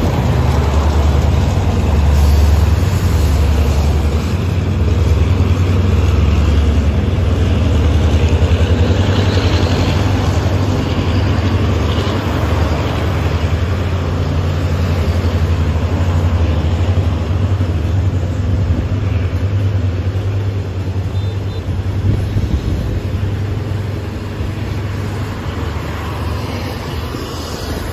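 Passenger train hauled by a diesel-electric locomotive passing, a loud steady low rumble, mixed with road traffic close by.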